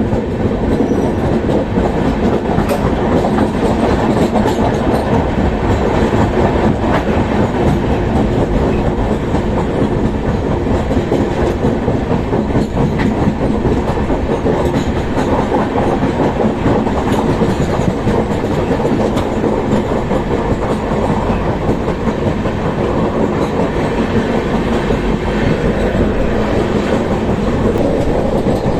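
Gitanjali Express passenger train running at speed: a steady loud rumble of the coaches with the clickety-clack of wheels over rail joints.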